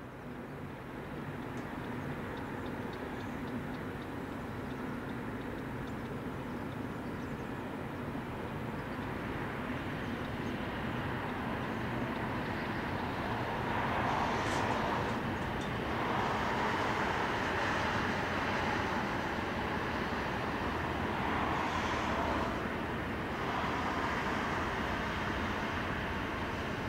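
Deutsche Bahn Intercity push-pull train approaching along the track: a steady rolling rumble that grows slowly louder. In the second half it comes in repeated swells of wheel-on-rail noise.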